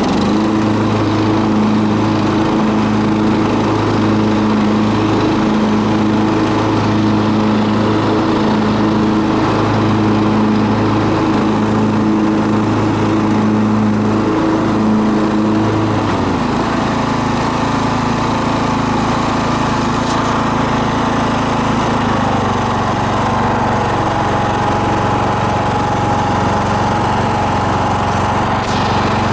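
Poulan riding lawn tractor engine running steadily. About halfway through its speed drops a little, and it settles into a slightly lower, steady note.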